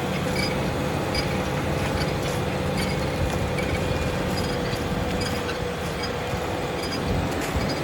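Large Fendt tractor's diesel engine running steadily while pulling a plough, with a constant whine held at one pitch over the engine's low drone.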